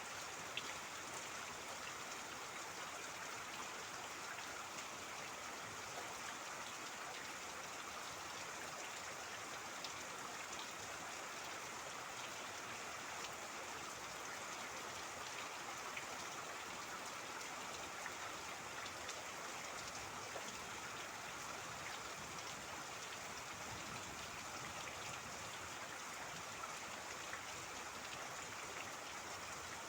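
Steady rain falling together with trickling, babbling water, with individual drops ticking now and then.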